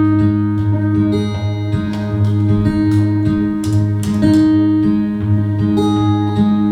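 Acoustic guitar playing the instrumental introduction of a song, strummed chords with sustained ringing notes.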